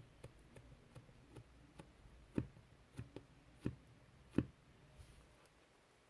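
Fluffy white slime being handled and pressed, making faint small clicks and pops, with four louder soft pops between about two and four and a half seconds in.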